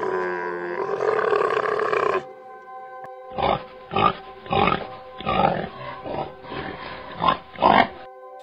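A Bactrian camel groans for about two seconds, then, after a short pause, wild boar give a run of about eight short grunts. Soft background music plays underneath.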